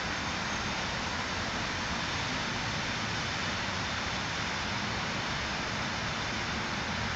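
Steady, even rushing noise of an EN57 electric multiple unit pulling out and rolling away along the track.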